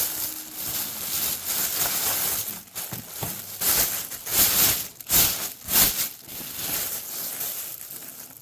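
Plastic packaging crinkling and rustling as it is handled, with a few louder crackles in the middle.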